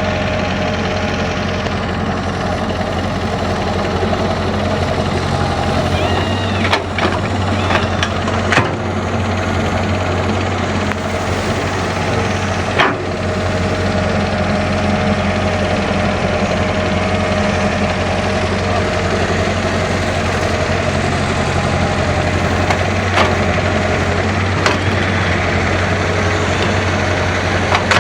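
Diesel engine of an excavator at work running steadily, with a few short sharp knocks and clanks of the machine and its bucket scattered through.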